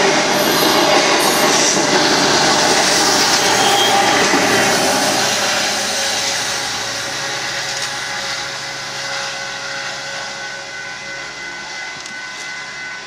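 Union Pacific mixed-freight train's cars rolling by on the rails, loud for the first few seconds and then fading steadily as the train draws away, with a thin steady squeal from the wheels in the later part.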